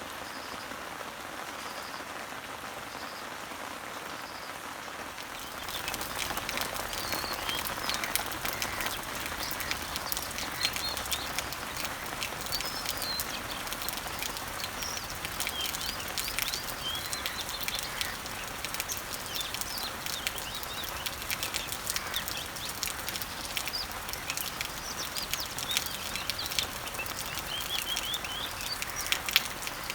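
Rain falling on garden leaves and trees, a steady hiss with the patter of drops, growing louder and closer about five seconds in. From then on, many birds chirp over it in short, rising and falling calls.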